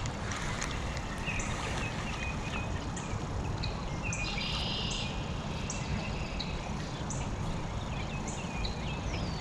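Birds chirping outdoors: short high notes repeated about once a second over a steady background hiss.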